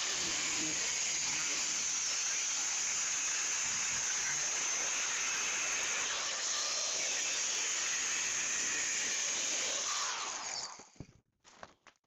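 A 4-inch angle grinder with a cutoff wheel cutting through 20-gauge sheet metal, a steady loud hiss of the wheel in the metal. It stops and winds down about ten and a half seconds in, followed by a few faint clicks.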